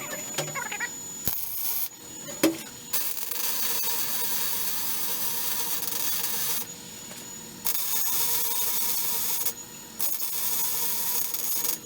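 Metalworking on steel in on-off bursts of about half a second to four seconds, a steady hissing rasp with short pauses between runs.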